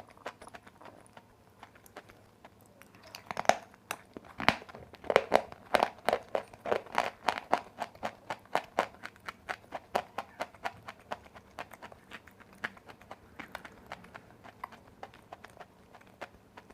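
Close-miked crunching of dry white clay or chalk being bitten and chewed. There are a couple of hard bites between about three and five seconds in, then a fast run of crisp crunches that grows sparser and softer towards the end.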